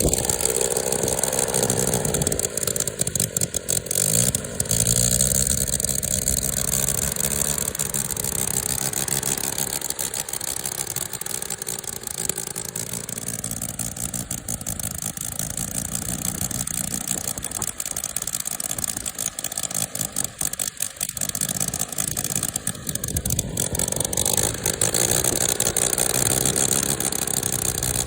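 UML-160 five-cylinder model rotary engine, converted to run on methanol with glow plugs, running and turning a large propeller. It runs louder and faster in the first few seconds, drops to a lower speed through the middle, and picks up again near the end.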